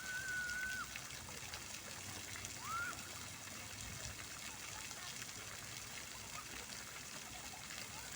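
City fountain's water falling and splashing steadily. Two brief whistle-like tones sound over it: a held one at the start and a short curved one about three seconds in.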